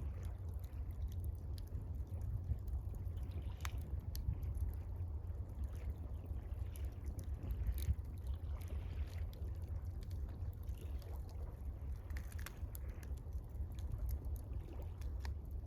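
Campfire crackling with scattered sharp pops, over gentle water trickling and lapping and a steady low rumble.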